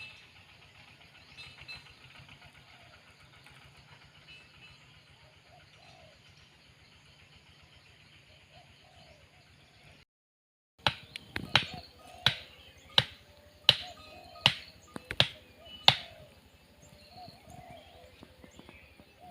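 Faint bird chirping over a low hum. Then a run of about eight sharp knocks, roughly one every two-thirds of a second, which are the loudest sound.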